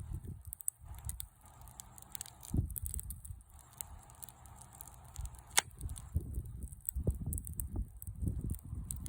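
Wood fire crackling, with sharp irregular pops, the loudest about five and a half seconds in, over low rumbling thumps.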